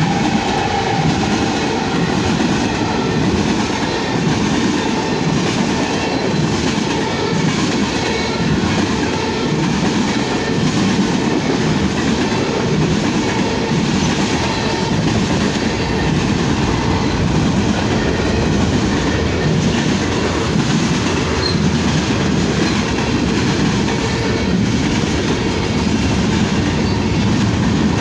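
Canadian Pacific mixed freight train of covered hoppers, tank cars and centerbeam flatcars rolling past close by, a steady loud rumble of steel wheels on the rails with repeated clacking as the cars go by.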